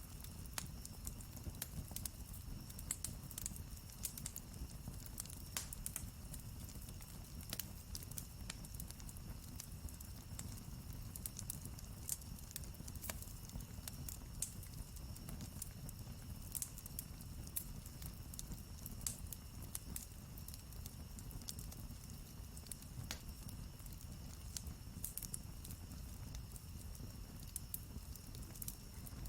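Wood campfire crackling, with irregular sharp pops scattered over a low, steady rush of the flames.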